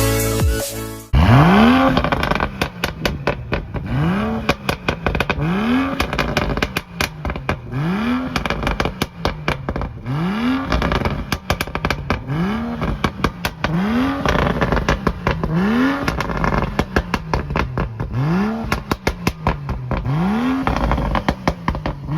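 Performance car engine revved again and again with the throttle blipped about every second and a half, each rev rising and falling, with loud exhaust pops and crackles on the overrun.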